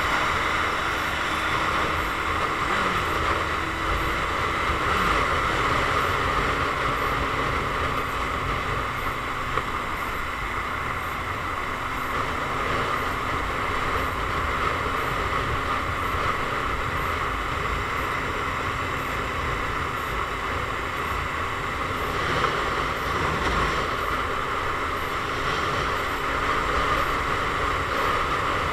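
Motorcycle on the move: a steady engine drone under wind rushing over the microphone.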